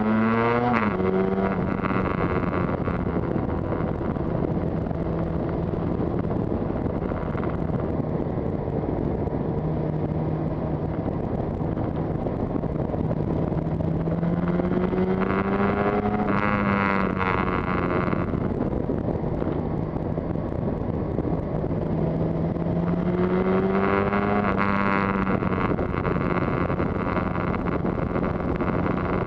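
Yamaha TZR250 two-stroke twin engine running as the motorcycle rides along, mostly holding a steady note. Its pitch rises under acceleration about a second in, around halfway, and again about three-quarters through, with a steady rush of wind noise on the microphone.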